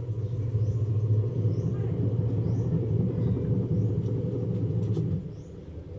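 Washing machine motor running with a steady low hum, cutting off suddenly about five seconds in.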